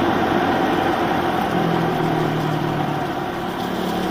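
Pit bike engine running at low, steady revs, muffled by a waterproof camera case.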